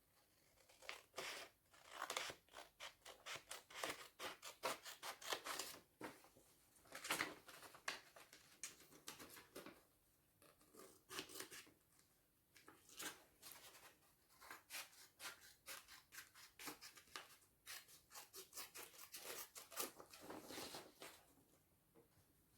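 Scissors snipping through paper in runs of quick, irregular cuts with brief pauses between them.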